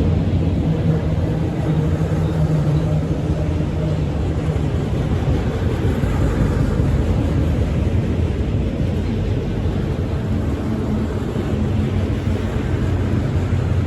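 Freight train of auto rack cars rolling past: a steady low rumble of steel wheels on the rails.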